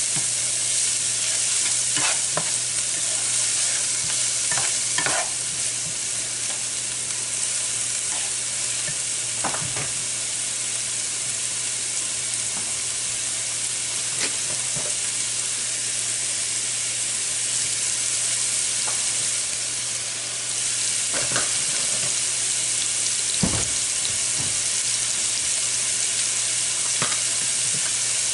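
Chopped onions and green onions sizzling steadily as they sauté in a nonstick frying pan, with a few short knocks and scrapes of a spatula against the pan now and then.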